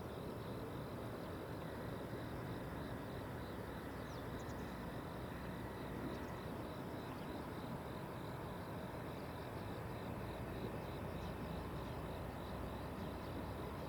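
Outdoor ambience: a steady low rushing noise, with insects chirring in a fast, even pulse over it.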